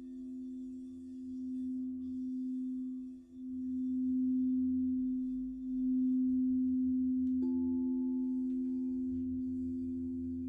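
Crystal singing bowls ringing with a sustained low tone that swells and dips. About seven seconds in a bowl is struck and a higher tone joins it.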